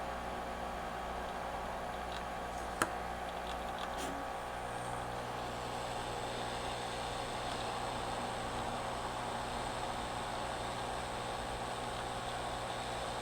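Steady whir and hiss of microsoldering bench equipment, with one sharp click about three seconds in; the whir shifts slightly in tone about a second later.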